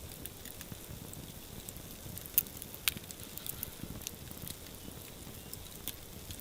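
Campfire crackling: irregular sharp pops over a low steady hiss, with two louder snaps near the middle.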